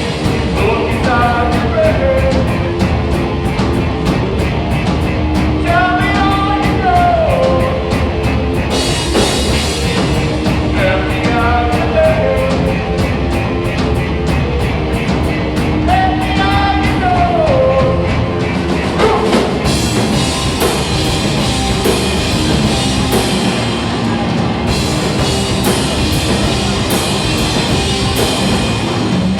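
A live rock band of electric guitar, bass guitar and drum kit playing loudly. A melodic phrase that rises and then falls recurs about every five seconds over rapid, steady drumming.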